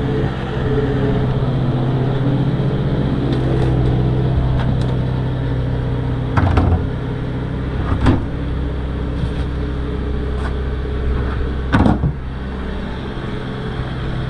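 A vehicle engine running steadily, with three short knocks, the last near the end.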